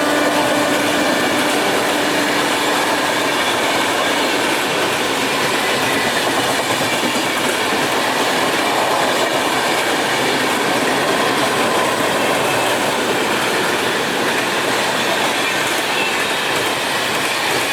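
Passenger train rolling past on the rails as it arrives, a steady loud rush of wheels and coaches with clickety-clack. A held horn-like tone dies away in the first few seconds.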